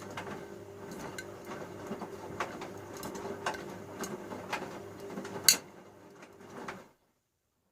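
Bauknecht Super Eco 6413 front-loading washing machine tumbling a wash load: the drum motor hums steadily while the laundry clicks and knocks inside the drum, with one sharper knock near the end. It stops suddenly about seven seconds in, the drum pausing between turns.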